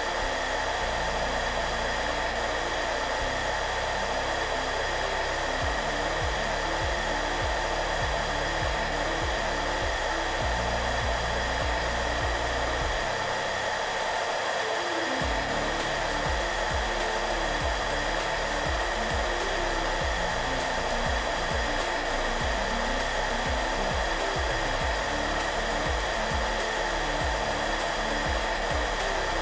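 Hair dryer running steadily with an even whooshing hiss, under soft background music whose low notes step along slowly and briefly drop out midway.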